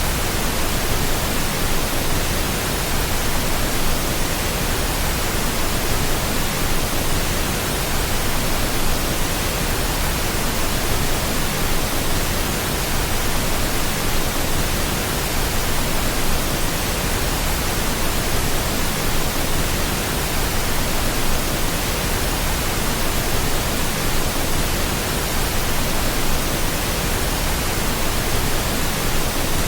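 Steady pink noise, an even hiss spread across the whole range from deep rumble to high hiss, unchanging in level.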